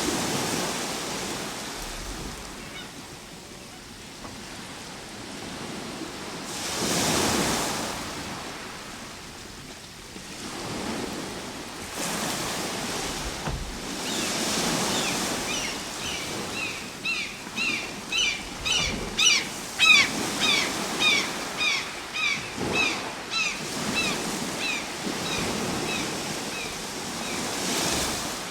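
Ocean waves breaking and washing in, swelling and fading every few seconds. From about halfway through, a run of short high chirps, about two a second, rides over the surf.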